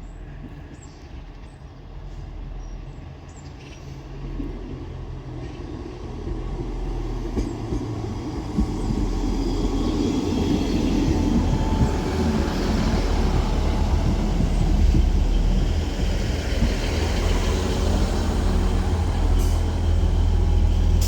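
Three-car Class 158 diesel multiple unit approaching and drawing into the station, growing steadily louder. It brings wheel-on-rail running noise and a deep diesel engine drone that holds steady by the end.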